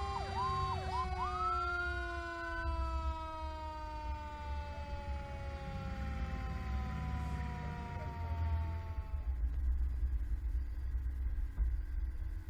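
Fire apparatus sirens: an electronic siren yelping in quick repeated dips switches to a rising, held tone about a second in, over a second, steady siren tone that slowly falls in pitch and fades out by about nine seconds. A low vehicle rumble continues underneath.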